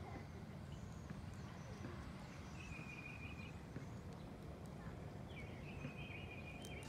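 Faint outdoor background: a steady low rumble, with a small bird twice singing a short trill of rapid high notes, once near the middle and again, longer, near the end.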